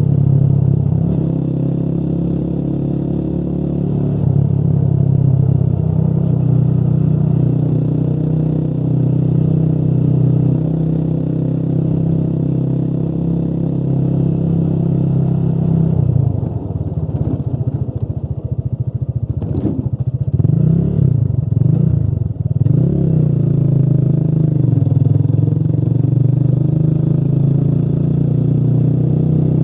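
Motorcycle engine running steadily under way. About halfway through the engine note drops and wavers as the throttle is eased off, then it picks up again and holds steady.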